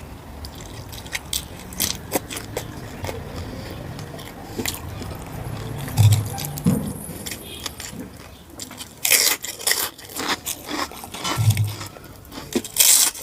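Close-miked eating: wet chewing and smacking of rice and mutton curry, with sharp crunchy bursts about nine seconds in and again near the end.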